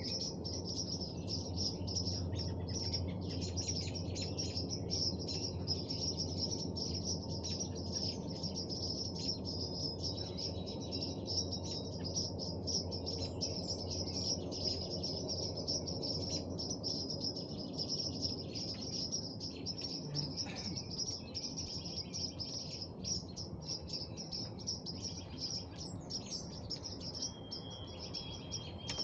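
Outdoor evening ambience: birds chirping and calling, with short whistled notes, over a continuous high-pitched buzzing chorus and a steady low background rumble.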